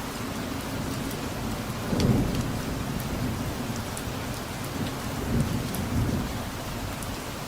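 Steady rain falling, with scattered drops ticking and a low rumble of distant thunder. The rumble swells about two seconds in and again twice a few seconds later.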